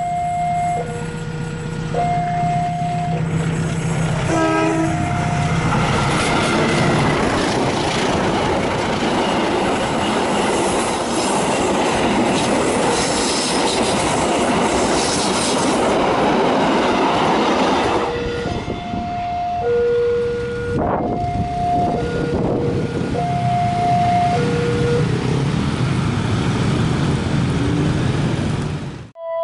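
Level-crossing warning alarm sounding a two-tone signal that alternates about once a second. A short horn sounds about four seconds in, then a train passes loudly for about twelve seconds, drowning the alarm, which is heard again after the train has gone.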